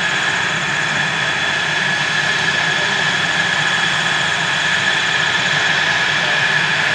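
F-16 fighter jet's engine running steadily: an even rushing noise with a high, steady whine on top.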